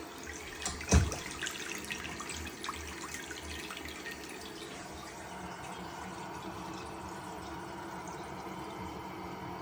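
Water running from a tap into a sink, a steady rush, with a sharp knock about a second in and a few light clicks just after.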